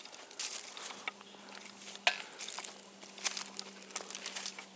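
Irregular crunching and rustling of dry forest litter underfoot, in short uneven bursts, over a faint steady low hum.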